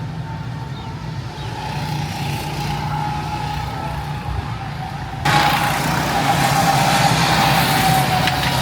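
Small petrol go-kart engines running on a track, a steady droning whine that dips slightly in pitch. About five seconds in, a louder rush of noise sets in over it.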